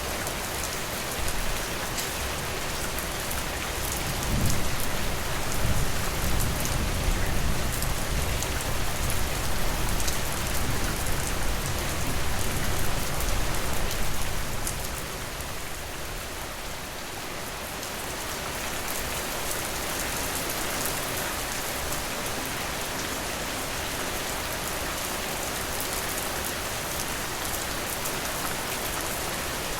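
Steady rainfall pattering on a surface. A low rumble swells in a few seconds in, runs for about ten seconds, then fades, leaving the rain alone.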